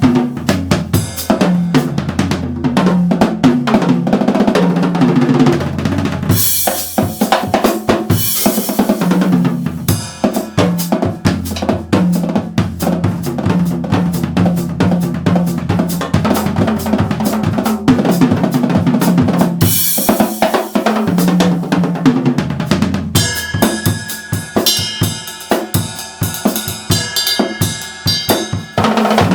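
Yamaha drum kit played in a busy groove of bass drum, snare and rimshots, with several crash cymbal washes. It plays along with a backing track that carries a moving bass line.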